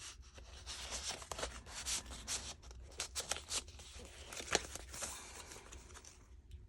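Paper pages and envelopes of a handmade junk journal rustling and crinkling as they are handled and turned, with many small sharp taps and clicks; it stops about six seconds in.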